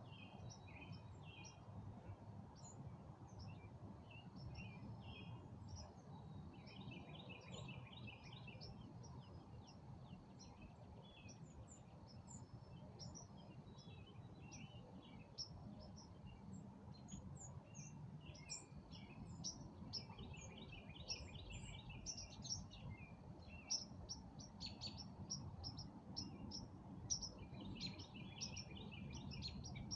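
Several songbirds chirping and calling in quick short phrases, getting busier and a little louder after the middle. A thin steady high note and a faint low rumble run underneath.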